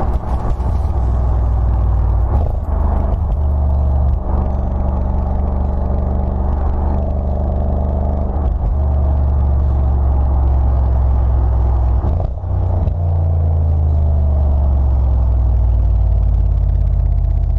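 Exhaust of an Audi S6's twin-turbo V8 with the mid muffler and resonators removed and an X-pipe fitted, giving a loud, steady deep drone under way. Brief dips break it a few times, and the engine note shifts in pitch a little after twelve seconds.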